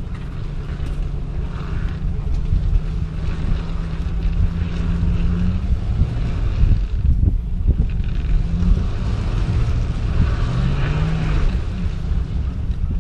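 Boat motor running steady, its hum shifting in pitch slightly near the end, with wind buffeting the microphone as the boat moves.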